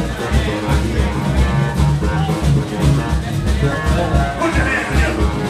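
Live band playing in a bar: a pulsing bass line under guitar, with a steady beat.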